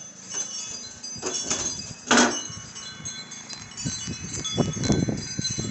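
Wind chimes ringing and clinking in strong, gusting wind, with one loud strike about two seconds in. From about four seconds on, wind buffets the microphone with a low rumble.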